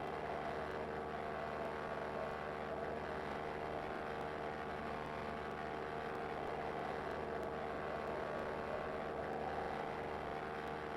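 Cessna 172 Skyhawk's piston engine and propeller droning steadily in flight, a constant stack of engine tones with no change in power.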